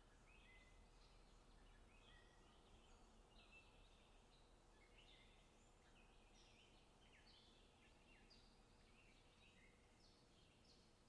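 Faint chirping of several small birds: many short, overlapping calls, some sliding down in pitch, over a steady low hiss.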